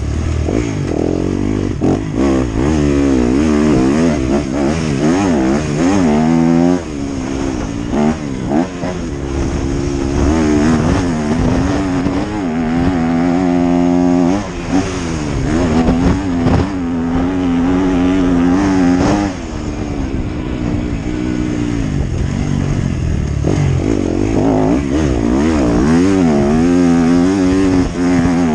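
Motocross bike engine being ridden hard, revving up and down over and over, with sharp drops in pitch as the throttle is chopped or a gear is shifted.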